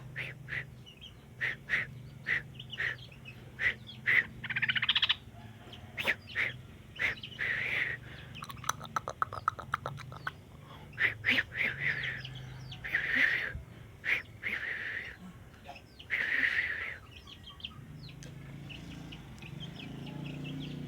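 Sooty-headed bulbul (trucuk) giving short, sharp chirping call notes at irregular intervals, with a couple of fast runs of notes, rather than full song. A steady low hum runs underneath.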